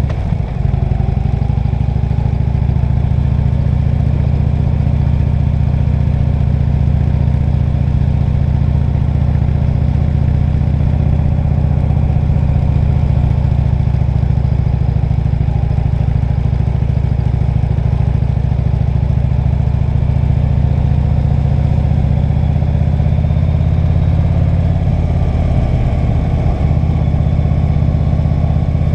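A vehicle engine running steadily at low speed, with a slight change in pitch near the end.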